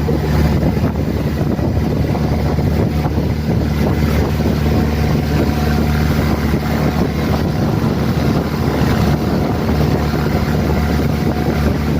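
Engine of a motorized outrigger pumpboat running at steady cruising speed, a constant low drone, with wind buffeting the microphone and the rush of water alongside.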